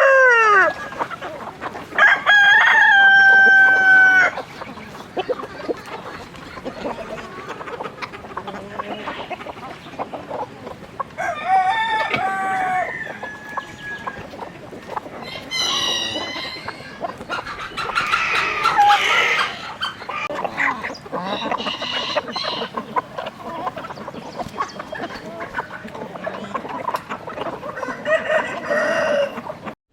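Roosters crowing several times, the loudest a long held crow a couple of seconds in, with chickens clucking between the crows.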